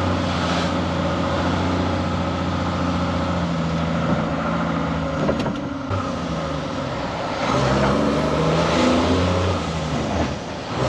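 Straight-piped Cummins M11 diesel of an ERF EC11 lorry running under load, heard from the cab; the engine note drops away for a gear change about five seconds in and again near the end, pulling up again in between.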